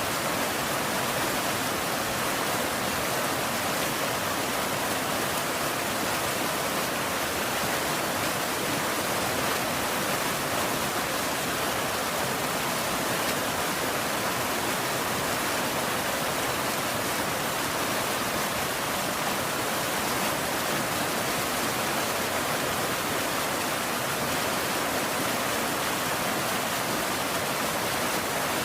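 Steady rain, an even hiss of falling water with no thunder and no change in level.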